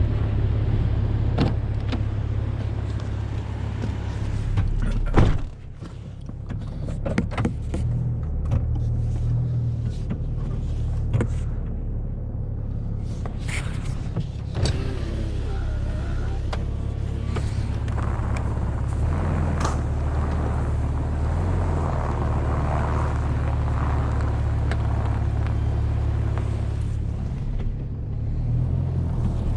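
A car's engine running steadily at low speed, being driven, with a few sharp knocks and clicks and one loud thump about five seconds in; the engine note shifts around twenty seconds in.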